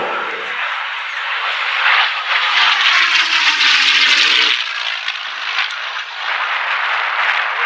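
Propeller-driven display aircraft flying a close pass, the engine and propeller noise swelling about two seconds in. The engine note drops in pitch as they go by, and a second, smaller swell comes near the end.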